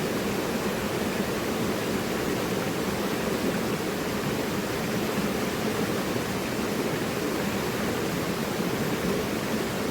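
Mountain river rushing over rocks: a steady, full rush of water with no breaks.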